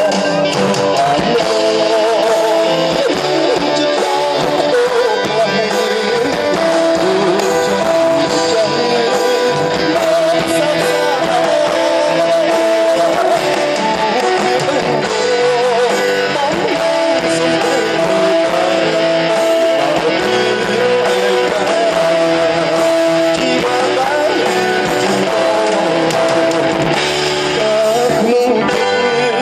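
Band music from a Khmer pop song: guitar with a held, sustained melody line over a full band, without clear vocals in this stretch.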